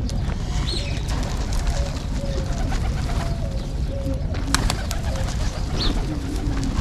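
Doves cooing in a run of short, low, level notes, with a few brief higher bird chirps over them and a steady low rumble underneath.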